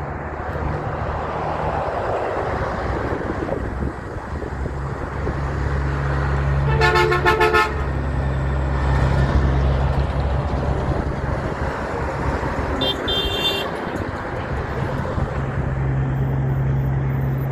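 Heavy truck engines and traffic running past, with a truck's air horn blown once for about a second near the middle, then a shorter, higher-pitched horn toot a few seconds later.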